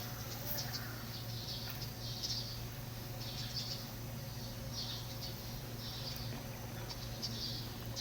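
Birds chirping in short high phrases, about one a second, over a steady low hum.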